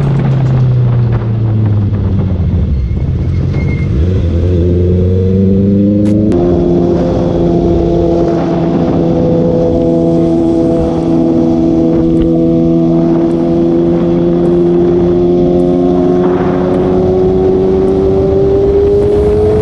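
Sport motorcycle's inline-four engine and exhaust under way. The revs fall at first, then rise again, with a sudden gear change about six seconds in. After that it holds a steady cruise, and the pitch slowly climbs toward the end.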